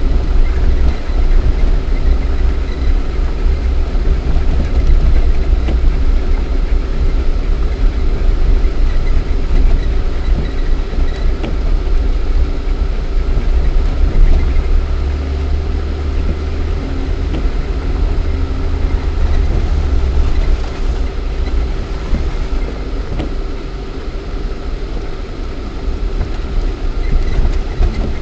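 Cabin noise of a Lada Niva 4x4 being driven off-road: its 1.7-litre four-cylinder petrol engine running under a heavy low rumble, with a steady whine and occasional knocks and rattles. It eases off a little past the middle and picks up again near the end.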